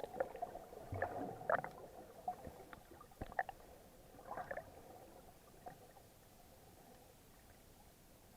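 Muffled water sounds heard through an action camera's waterproof housing while snorkeling: scattered clicks and short splashy bursts over a faint steady hum. The activity thins out after about five seconds, leaving a low hiss.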